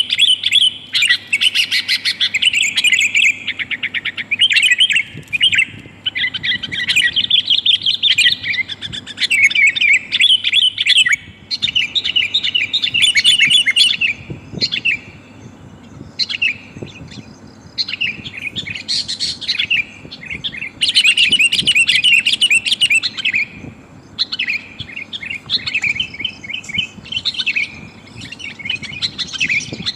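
Sooty-headed bulbul (kutilang) calling: runs of rapid, bright chirping and chattering phrases broken by short pauses, with a longer lull about halfway. The uploader labels the calls a female calling to a male.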